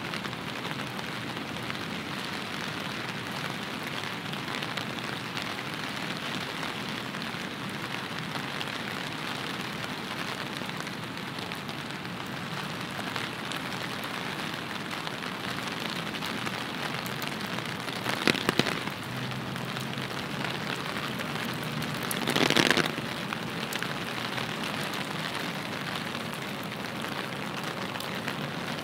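Steady hiss of rain falling on the street, recorded with binaural in-ear microphones. About two-thirds of the way in come a few sharp clicks, and a few seconds later a brief, louder noisy burst.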